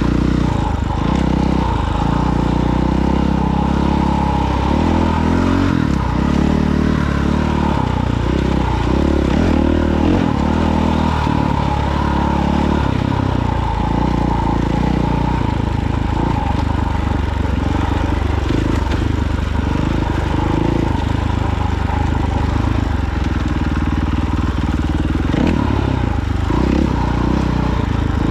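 Off-road vehicle engine running under way, its pitch rising and falling continually as the throttle is worked on the trail.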